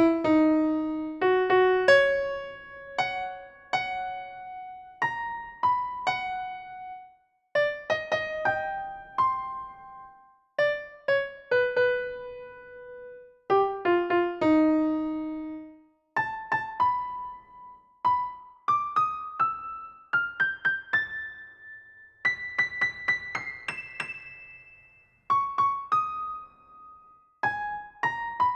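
Background piano music: a melody of single struck notes, often in quick runs, each note ringing out and fading.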